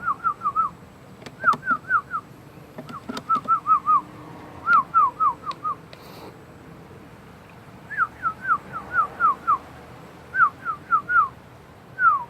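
Whistling in short, falling notes, in quick runs of four to six, repeated every second or two.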